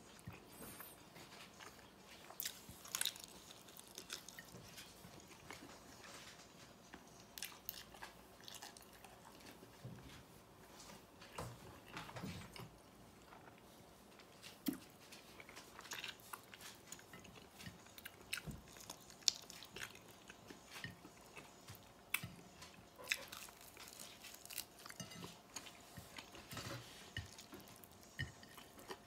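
A person chewing and biting food close to the microphone, with irregular small wet clicks, smacks and crunches.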